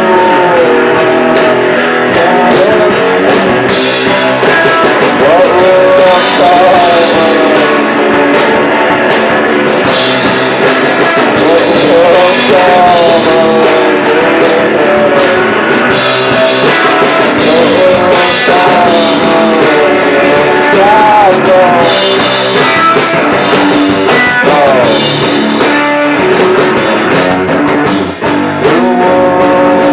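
Live rock band playing: electric guitars and a drum kit with cymbals, a wavering melodic line, and a short drop in level about two seconds before the end.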